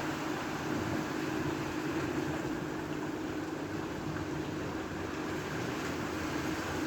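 A steady engine drone: a constant hum over an even rushing noise, with no change in pitch or speed.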